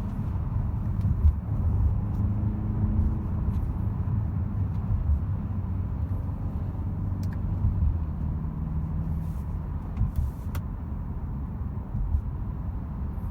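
BMW 330i's 2.0-litre turbocharged four-cylinder engine running under a steady low road rumble as the car drives at a fairly constant speed, its hum shifting slightly in pitch now and then.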